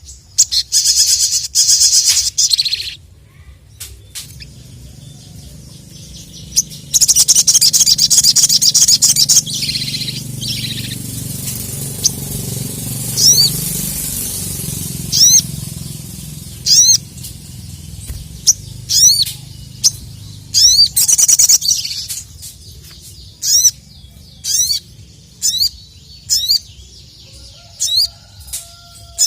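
Sogon (sogok ontong) songbird singing. Two bursts of fast, loud chattering trill come near the start and again about seven seconds in. After that comes a series of sharp single whistled notes, roughly one a second, with a low rumble underneath in the middle stretch.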